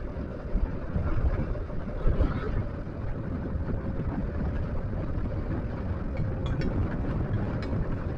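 Riding noise from a Yamaha NMAX scooter under way: a steady low rumble of wind on the microphone and road noise, with a faint steady hum from the scooter running.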